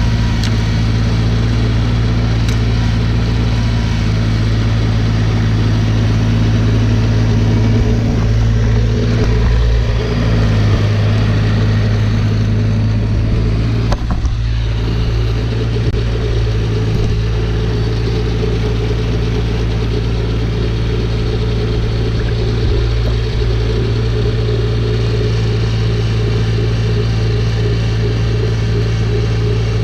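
Snowblower engine running steadily at work as it blows snow, its note wavering a little about halfway through.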